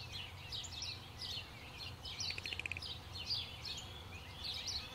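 Small birds chirping repeatedly in short, high calls, with a rapid trill about halfway through, over a low steady rumble.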